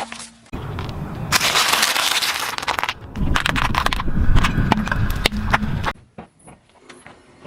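Brittle objects being crushed under a car's tyre: a dense run of crunching and crackling with many sharp cracks and snaps. It stops abruptly about six seconds in.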